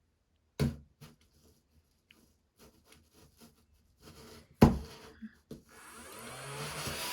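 Small eraser-crumb desk vacuum being handled, with scattered taps and two loud knocks of its plastic body. About six seconds in, its little motor starts and the running noise swells into a steady hiss.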